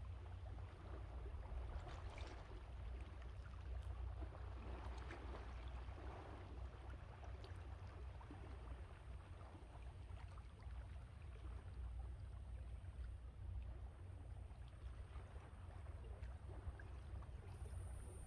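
Sea waves washing on the shore, swelling about two and five seconds in, over a steady low rumble of wind on the microphone.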